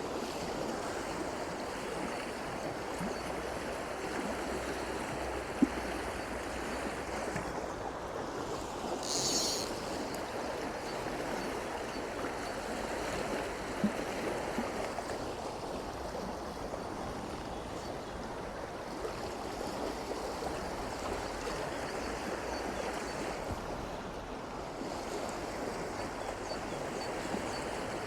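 Shallow stream water rushing steadily over rocks, with a brief louder splash of water about nine seconds in and two sharp clicks, one a few seconds before it and one a few seconds after.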